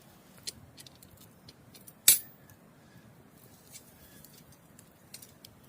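Scattered small clicks and light clinks against a quiet background, with one sharp, loud click about two seconds in.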